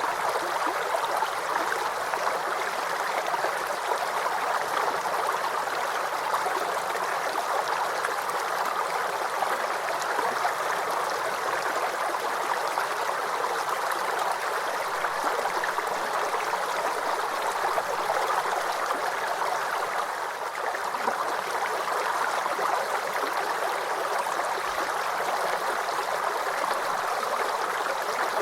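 Small forest creek babbling and trickling, a steady, even water sound.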